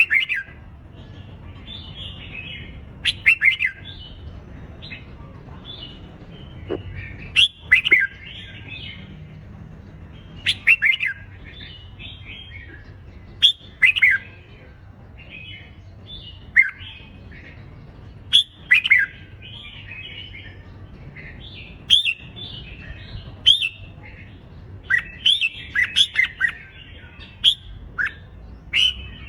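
Red-whiskered bulbuls giving their competitive fighting song: short, loud, quick chirping phrases every second or two, over a low steady hum.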